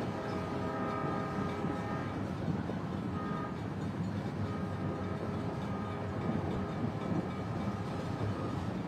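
Steady rumble of a moving passenger train, heard as a laid-on sound effect, with a held horn note that stops about two seconds in.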